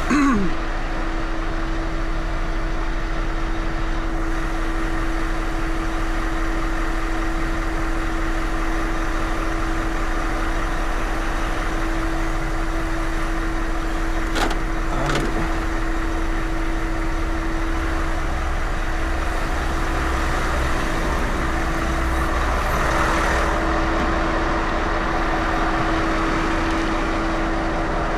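Truck diesel engine idling steadily, with a constant hum over a low rumble; two short clicks about halfway through.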